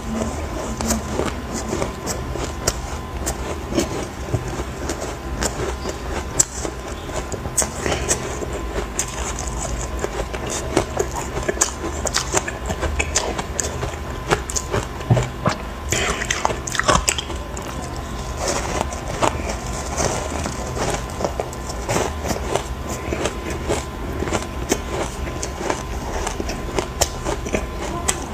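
Hard ice chunks dusted with matcha powder being bitten and chewed close to the microphone: dense, irregular crunching and cracking with no pauses, over a steady low rumble.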